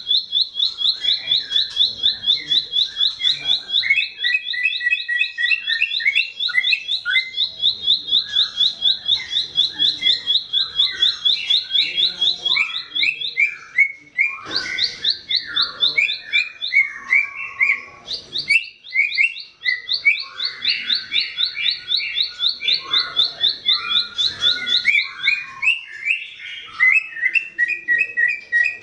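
Ciblek sawah (a prinia) singing: a fast, steady run of identical high notes, about eight or nine a second, going on for many seconds at a time. It breaks off twice around the middle and picks up again. A jumble of shorter, lower chirps runs underneath.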